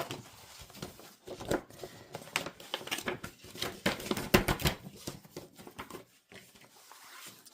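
Paper posters being handled: rustling and crinkling in many short, irregular crackles and light taps.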